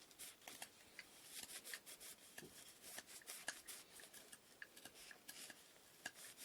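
Quiet handling of small wooden inkle loom parts: many light clicks and taps mixed with short scratchy rubs, irregular and close together.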